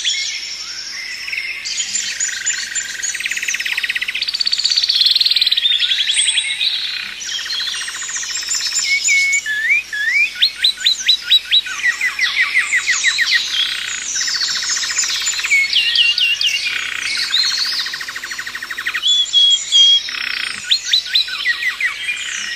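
Several birds singing at once in a dense chorus: rapid trills, runs of quick repeated notes and short upward-sweeping chirps overlapping throughout.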